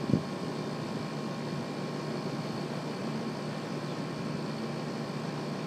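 Steady mechanical hum with a few faint steady tones, and one brief thump near the start.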